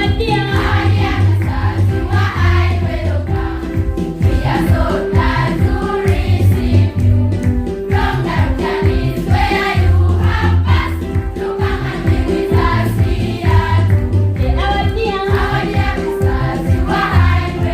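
A choir singing with musical accompaniment, over a strong, pulsing bass.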